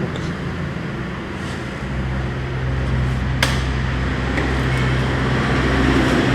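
Steady low mechanical hum that grows stronger about two seconds in, with a single sharp click a little past the middle.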